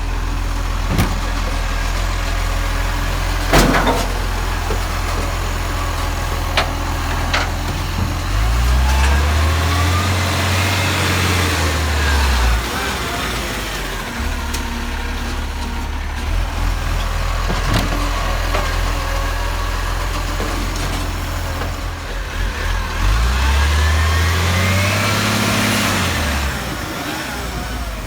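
Garbage truck's diesel engine idling and twice revving up and back down, each time with a rising hydraulic whine as the truck works its hydraulics. A few sharp metallic knocks come in between.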